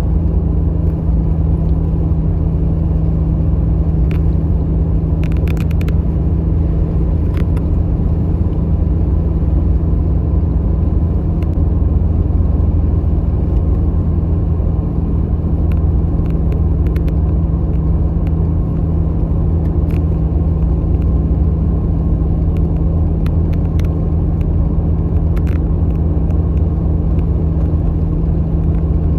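Jeep XJ running steadily: a constant low rumble with a steady drone that does not rise or fall, and a few faint ticks here and there.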